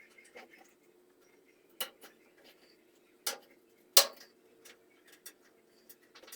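Scattered sharp metallic clicks and knocks from tools and parts being handled during reassembly, the loudest about four seconds in, over a steady faint hum.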